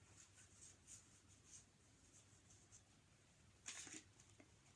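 Faint scratching of writing strokes over near silence, with a short louder rustle nearly four seconds in.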